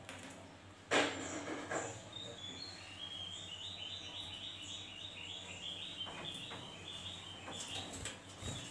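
Javan grey-throated white-eye (opior jawa) chirping a fast run of short, high, evenly repeated notes for about four seconds, starting about three seconds in. A sharp knock about a second in is the loudest sound.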